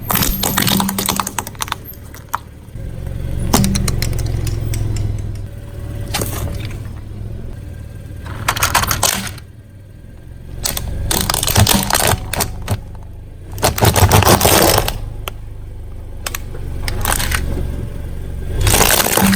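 Objects crunching and cracking under a car tyre in repeated bursts of crackle, over the low steady rumble of the car's engine.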